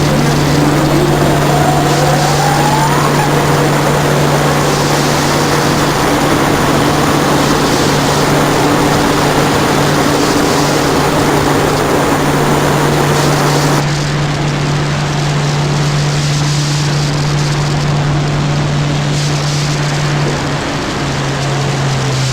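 Engine running steadily with a constant low hum over a noisy roar, a rising whine about a second or two in, and a step down in pitch near the end.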